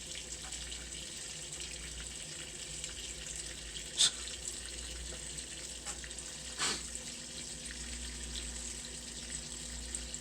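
Water running steadily, with two brief sharp sounds about four and six and a half seconds in.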